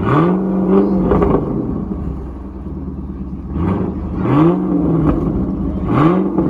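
Supercar engine idling and revved three times. Each blip rises quickly in pitch and holds briefly before dropping back: the first near the start, then two more close together about four and six seconds in.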